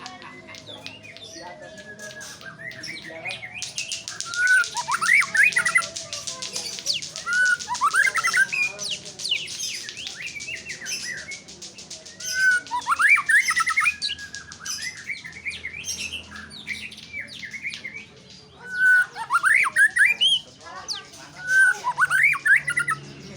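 White-rumped shama singing: loud bursts of whistled phrases that sweep up and down in pitch, repeated five times with short pauses between. A fast, high-pitched ticking runs under the song through its first half.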